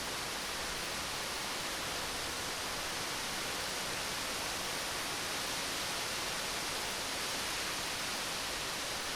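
Rain falling steadily, an even hiss with no distinct drops or thunder standing out.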